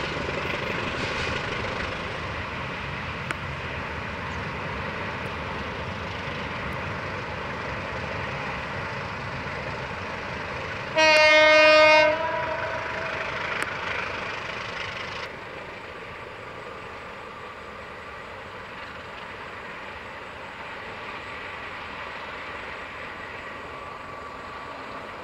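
Diesel-hauled passenger train running away along the track, its engine and wheel noise steady and slowly fading. About halfway through, the locomotive gives one loud horn blast about a second long.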